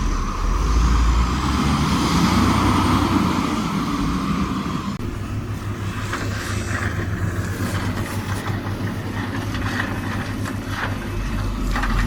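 Diesel heavy machinery running steadily, with a whine that cuts off suddenly about five seconds in. Scattered knocks follow in the second half.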